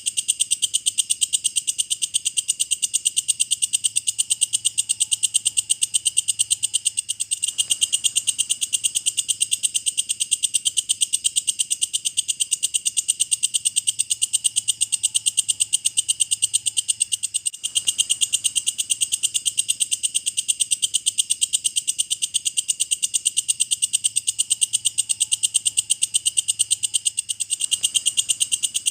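Walang kecek bush cricket stridulating: a loud, continuous, rapid high-pitched pulsing trill, with a brief break about every ten seconds.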